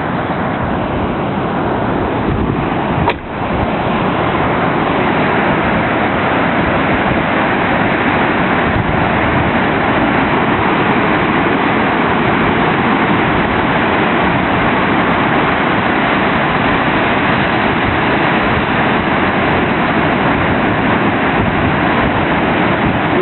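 Surf from a strong post-typhoon swell breaking on a sandy beach: a steady, loud wash of waves.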